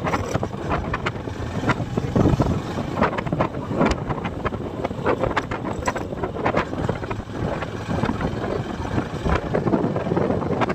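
Wind buffeting the microphone of a rider on a moving motorcycle: a loud, gusty rumble with irregular thumps.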